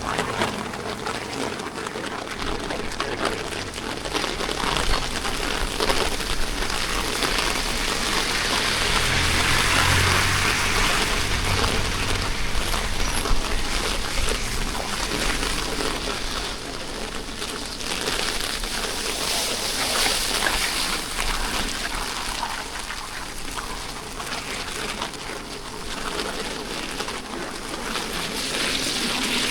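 Steady rain falling, with water trickling and splashing. It grows louder for a few seconds about a third of the way in, along with a low rumble.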